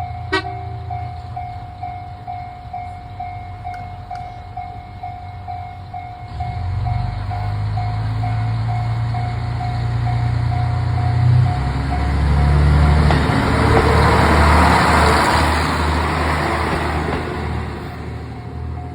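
KiHa 54 diesel railcar's engine running low, then opening up about six seconds in as the railcar pulls away, rising in steps. It grows loudest with wheel and rail noise as it passes, then fades. A repeating ding about twice a second sounds throughout.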